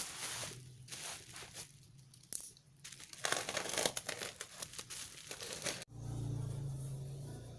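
Crinkling and rustling handling noise, like plastic packaging being handled, loudest around the middle. It cuts off suddenly near the end and gives way to a low steady hum.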